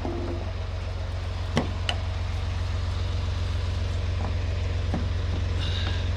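Semi truck's diesel engine running steadily at a low, even pitch while it works to drag a snowbound trailer out. A sharp knock sounds about a second and a half in.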